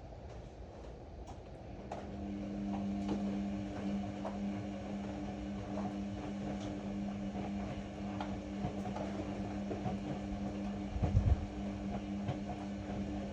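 Ariston AML125 washer-dryer's drum motor running with a steady hum that starts about two seconds in, over scattered light clicks from the tumbling drum. There is one low thump about eleven seconds in.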